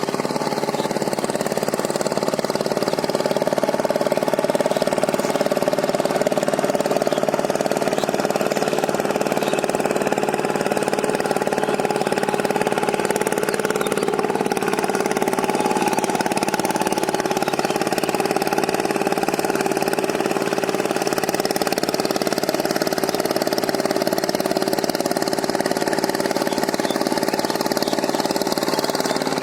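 Power tiller engine running steadily while the tiller works through mud, its note dipping briefly about halfway through.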